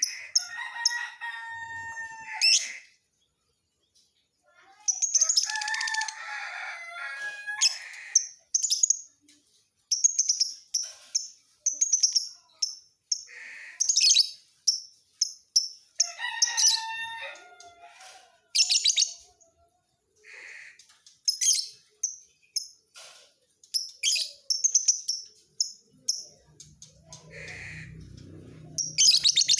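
Lovebird chirping: runs of short, shrill, high-pitched chirps, broken by a few longer, lower calls.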